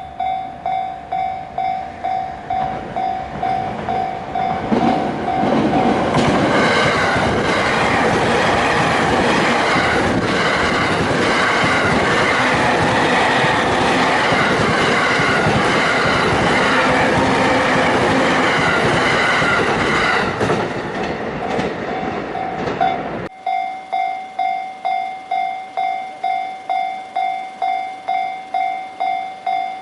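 Japanese level-crossing alarm bell ringing in a steady, fast electronic ding-ding. About five seconds in, a train rushes over the crossing, its wheels clicking over the rail joints and drowning out the bell for most of twenty seconds. The train noise stops abruptly near the end, leaving the bell ringing on its own.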